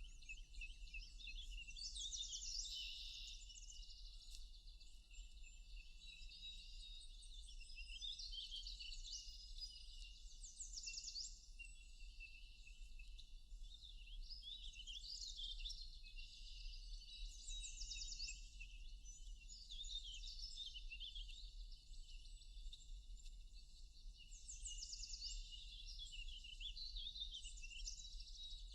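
Forest birds singing: high-pitched chirps and quick trilled phrases from several birds, overlapping and recurring every few seconds. A faint steady low hum lies underneath.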